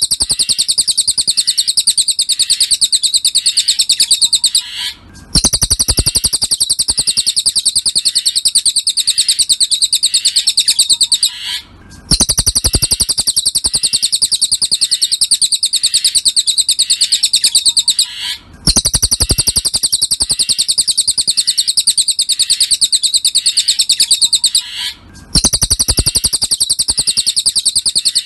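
Cililin songbird singing a fast, high, continuous trill, repeated in near-identical phrases about six seconds long with brief breaks between them.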